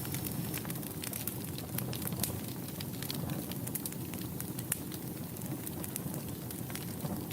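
Wood fire burning in a fireplace: a steady low rush of flame with frequent, irregular sharp crackles and pops.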